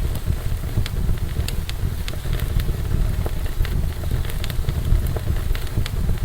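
Fire burning in a fireplace: a steady low rumble of flame with frequent, irregular sharp crackles and pops, a few each second.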